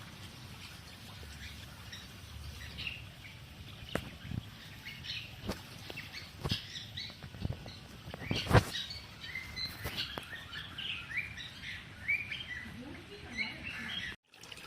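Birds chirping in many short, quick notes, busier in the second half, with several sharp knocks, the loudest about halfway through. The sound cuts out briefly near the end.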